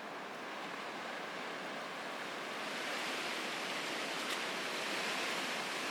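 Steady, even hiss with no distinct events, slowly growing a little louder.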